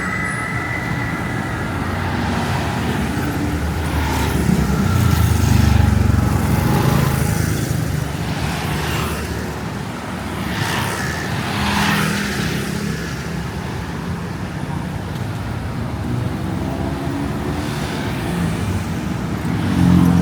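Street traffic: motor vehicle engines running close by, the loudest passing about five seconds in, over a steady city hum.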